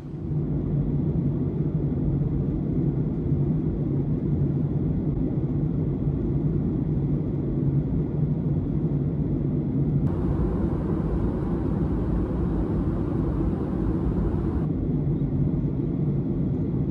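Steady low rumble of a vehicle travelling, heard from inside it. About ten seconds in, a brighter hiss joins for a few seconds and then cuts off abruptly.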